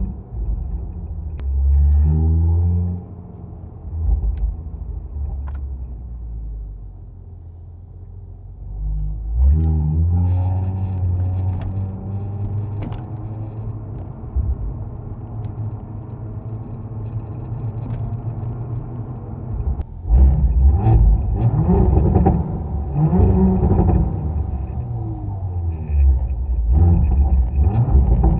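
Audi S5 Sportback's 3.0-litre V6 through an aftermarket downpipe and RS exhaust, pulling hard with the pitch climbing at about 2 seconds and again at about 9 seconds, running steadily in between. From about 20 seconds on it is revved and accelerated repeatedly, rising and falling in pitch with sharp cracks between pulls.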